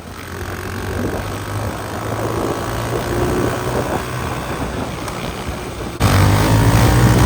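Motorcycle engine running under way, its pitch shifting with the throttle; it becomes suddenly louder about six seconds in.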